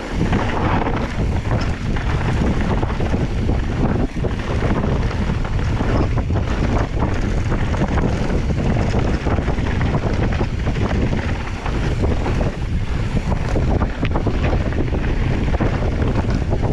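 Wind buffeting the microphone: a loud, steady rumble with a few brief knocks.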